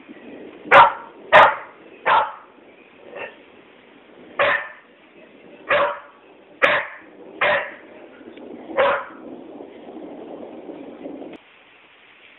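A dog barking: about nine single, sharp barks at uneven intervals of roughly a second, one of them faint, over a steady low hiss that stops suddenly near the end.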